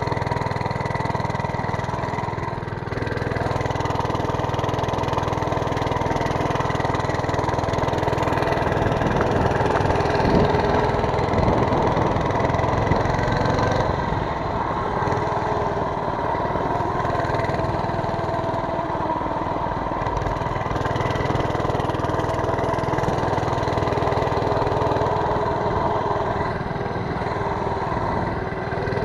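Mini bike's small engine running steadily, a little louder about ten seconds in.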